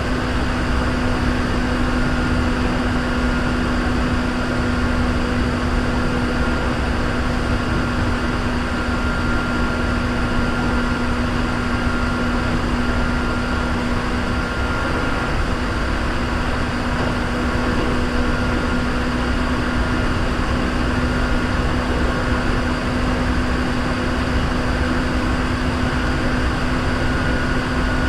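Hankyu 3300 series electric commuter train running at a steady speed between stations, heard from inside the car. A constant rumble of wheels on track carries a steady low hum and a fainter high whine.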